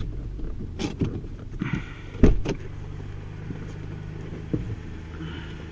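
2017 Toyota Kluger running at a low idle as it comes slowly down off drive-on car ramps, with several knocks from the wheels and ramps, the loudest a little over two seconds in.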